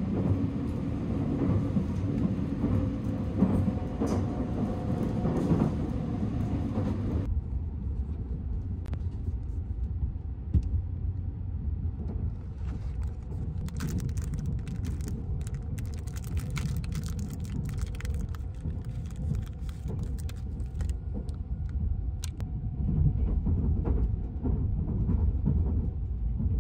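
Sunrise Izumo sleeper train running, a steady low rumble heard from inside the carriage. About halfway through, a run of light clicks and crackles lasts several seconds.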